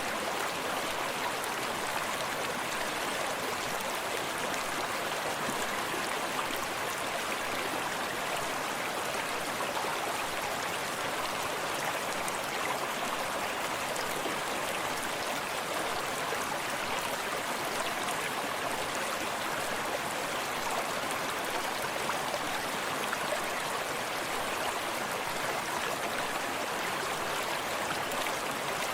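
Small forest stream running steadily over rocks, a continuous even rush of water with soft lapping and splashing close by.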